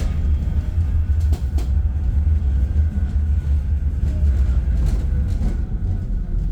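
Manchester Metrolink tram running on its rails, heard from on board: a loud, steady low rumble with a few brief clicks.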